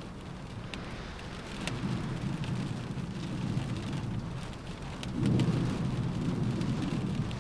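Steady rain with scattered sharper drop ticks. A low rumble swells up about two seconds in, and again more loudly about five seconds in.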